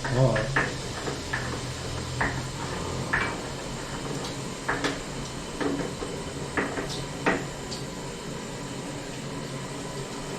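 Kitchen clatter: a dozen or so short knocks and clinks of dishes and utensils being handled, spaced irregularly. A low hum fades out about two seconds in.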